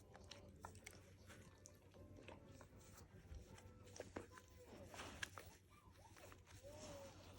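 Faint, scattered clicks and scuffs of a dog biting and chewing its toy, with a short faint squeak near the end.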